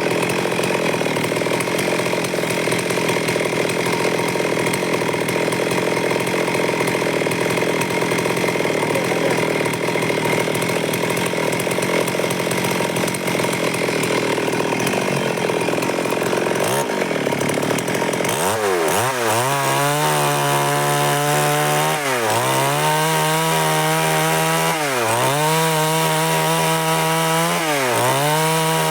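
Stihl MS382 two-stroke chainsaw cutting wood at a steady high speed. In the second half its engine speed repeatedly dips and climbs back, about every three seconds.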